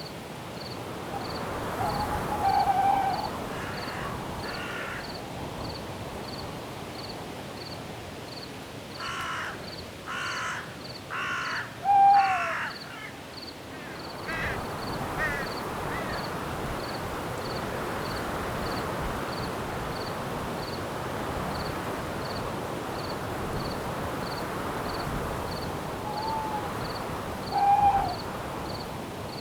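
Night forest ambience: a steady hiss of wind in the branches under an even, repeating cricket chirp. Short owl hoots come a few seconds in, about twelve seconds in (the loudest) and twice near the end, and a run of four harsh calls sounds about ten seconds in.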